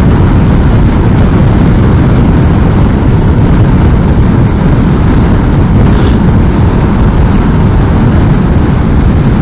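Strong crosswind rushing over the microphone while riding a motorcycle at speed, a loud steady roar mixed with road and engine noise.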